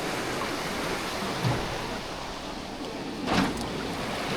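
Steady wash of sea and wind noise around a small boat on choppy water, with a brief louder rush of water about three seconds in.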